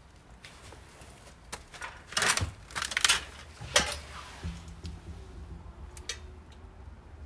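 A few sharp clacks and scrapes of objects being handled, loudest about two to four seconds in, with lighter clicks after; a low steady hum comes in about halfway.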